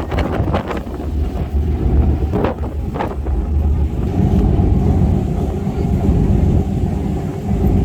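Wind buffeting the microphone over the steady low rumble of a boat underway, with a couple of short knocks about two and a half and three seconds in.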